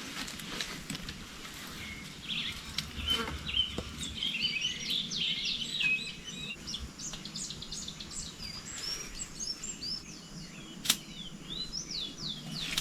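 Wild birds chirping and singing, a busy run of short rising and falling calls. A few sharp clicks sound among them, the loudest near the end.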